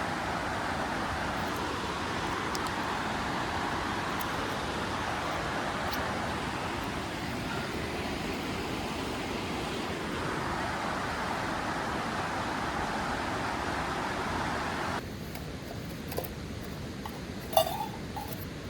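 A steady rushing noise with no rhythm. About fifteen seconds in it cuts abruptly to a quieter background with a few small clicks and a short chirp.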